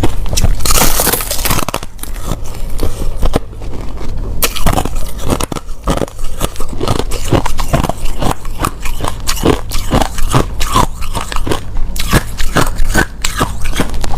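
Crushed clear ice being bitten and chewed close to the microphone: dense, rapid crunching with sharp cracks and snaps.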